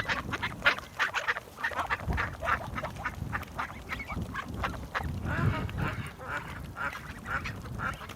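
A group of ducks quacking, with many short calls overlapping in quick succession.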